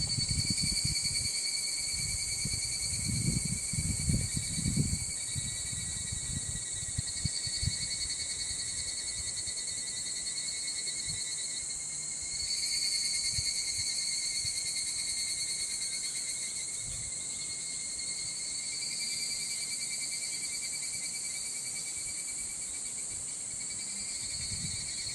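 A steady, high-pitched chorus of insects shrilling in rural countryside, with low wind rumble on the microphone in the first few seconds.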